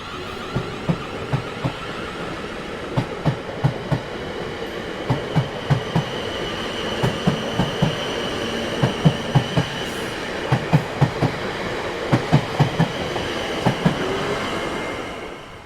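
Train cars rolling past, their wheels clicking over the rail joints in regular pairs over a steady rumble, with a thin high wheel squeal through the middle. The sound dies away near the end.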